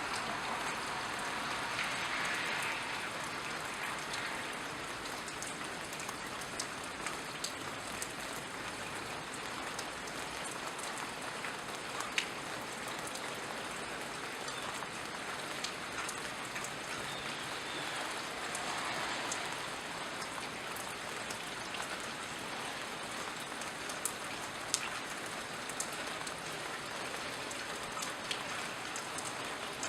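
Steady rain falling, an even hiss with a scattering of sharper individual drops and drips standing out here and there.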